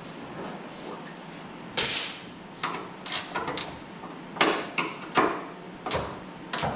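Hand wrench working a hood bolt loose: a run of sharp metallic clicks and knocks at uneven spacing, starting about two seconds in.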